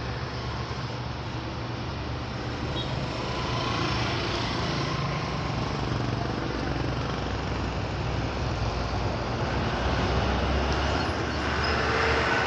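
Steady road traffic noise: engine rumble and tyre hiss that swells and eases as vehicles pass.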